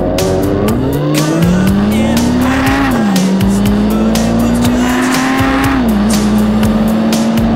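Motorcycle engine pulling away, its pitch climbing and then dropping sharply twice as it changes up through the gears, then holding a steady note, with music playing over it.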